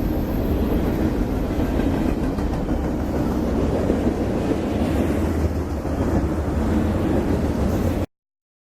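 Train running past on the rails, a steady loud rolling noise that cuts off suddenly about eight seconds in.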